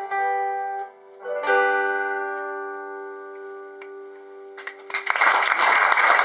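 Guitar and keyboard play the closing chords of a live song. The final chord rings out and fades, and about five seconds in the audience starts applauding.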